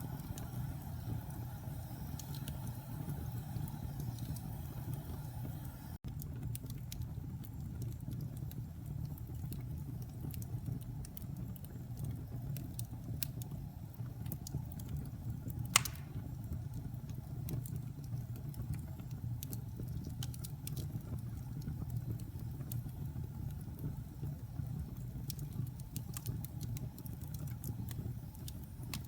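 Fire burning in a fireplace: a steady low rumble of flames with scattered small crackles and one loud pop about halfway through.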